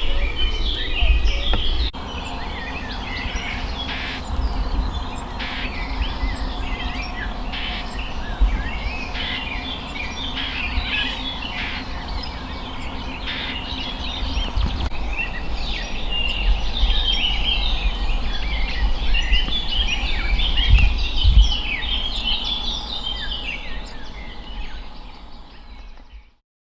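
A chorus of many small songbirds singing and chirping over one another, over a low rumble. It fades out near the end.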